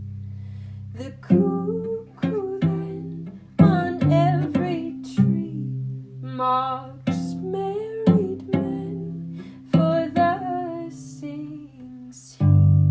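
Song: a voice singing over plucked strings and a held low bass, with the bass note swelling loudly again near the end.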